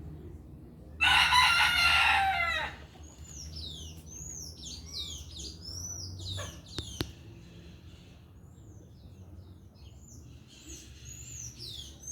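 A rooster crows once, about a second in, the call ending on a falling pitch. Afterwards small birds chirp over and over with quick, high, downward-sliding notes.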